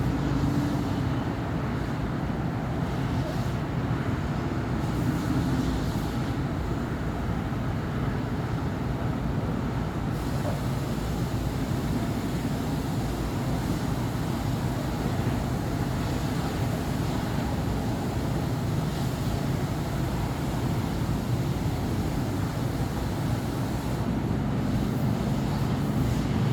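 City street traffic: a steady rumble of cars, buses and trucks passing on a busy avenue, with no single vehicle standing out.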